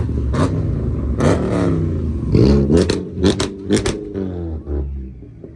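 A high-performance V8 car engine revved hard several times, its pitch rising and falling with each blip, with sharp exhaust pops and cracks among the revs; it settles down near the end.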